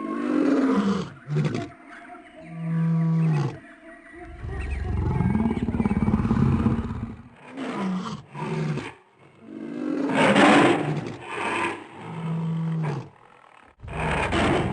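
A series of roars and growls from cartoon characters, several separate calls with short pauses, the longest and loudest low ones about a third and two-thirds of the way through.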